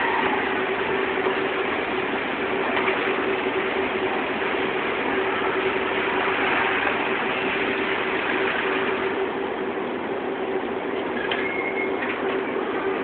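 Automatic fabric spreading machine running: a steady mechanical whir with a constant hum tone.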